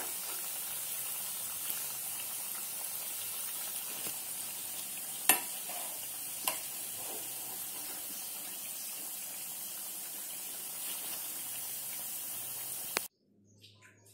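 Cabbage vadas deep-frying in hot oil in a pan: a steady sizzle with two sharp clicks, about five and six and a half seconds in. The sizzle cuts off suddenly near the end.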